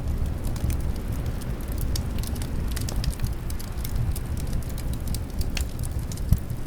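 Wood fire crackling in a fireplace: a dense, irregular run of small sharp pops over a low steady rumble, with one louder pop near the end.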